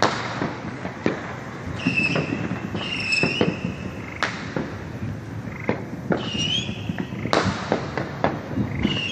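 Fireworks going off: sharp bangs and crackling pops at irregular intervals, with several short, high-pitched whistles in between.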